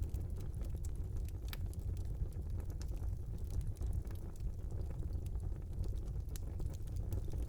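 Wood fire burning in a small fireplace: a steady low rumble of flames with scattered sharp crackles and pops throughout.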